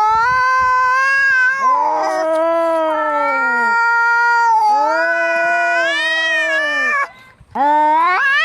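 Two domestic cats caterwauling at each other in a fight: long, drawn-out yowls that waver up and down in pitch and overlap, with a brief pause a little after seven seconds before a rising yowl starts again.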